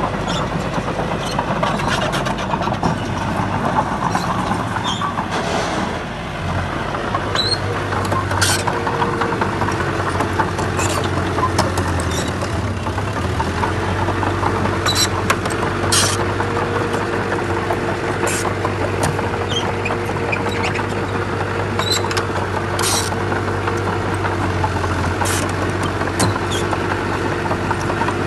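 Komatsu D31P bulldozer's diesel engine working under load, a steady drone that dips briefly about six seconds in and shifts pitch a little later. Scattered sharp knocks and clanks run over it, one every second or two.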